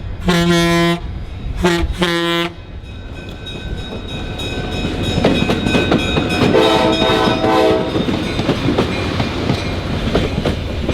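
Diesel passenger train's horn finishing the long-long-short-long grade-crossing signal: a long blast, a short one and a final long one, over in the first two and a half seconds. The train then passes close by with a steady rumble and wheel clickety-clack over the rail joints, a brief pulsing horn-like tone sounding about midway.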